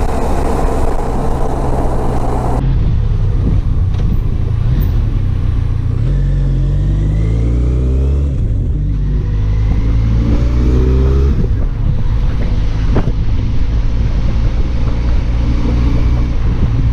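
Motorcycle engine running while riding on the highway. Its pitch rises and falls a few times midway as it is revved through the gears. Wind noise fills the first couple of seconds, then drops away suddenly.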